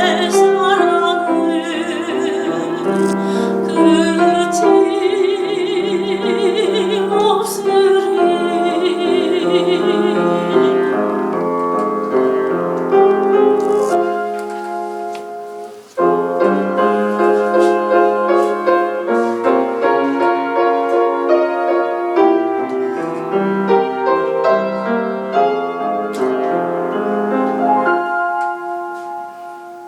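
Soprano singing a Korean art song (gagok) with wide vibrato over piano accompaniment. About ten seconds in her voice stops and the piano plays on alone, dying away briefly around the middle before coming back in.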